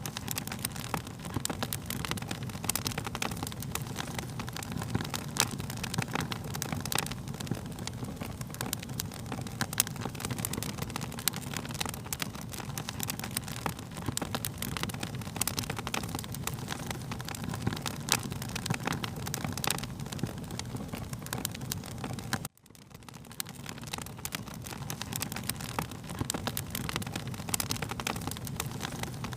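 Wood fire crackling: a steady low rumble of burning with frequent sharp pops and snaps. About 22 seconds in, the sound cuts out for an instant and fades back in.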